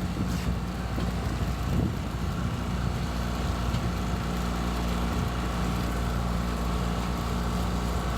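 A boat engine running steadily at low speed: an even, low hum.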